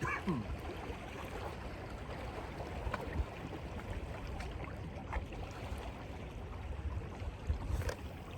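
Steady wash of sea water and surf at the rocks, with low wind rumble on the phone's microphone. A few faint knocks come about three, five and seven and a half seconds in.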